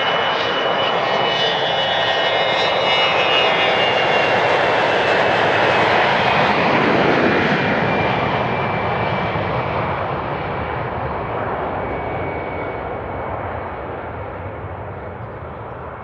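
Jet aircraft passing by, its turbine whine sliding slightly down in pitch as it goes past. The noise builds to its loudest about six to seven seconds in, then fades away.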